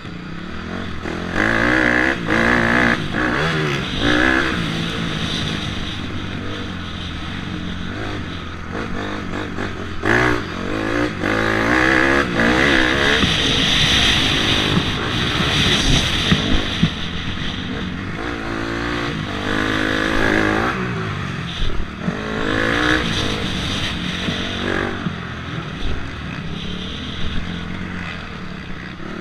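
Motocross dirt bike engine revving up and down again and again, the pitch climbing and dropping through the gears, with a few sharp knocks along the way.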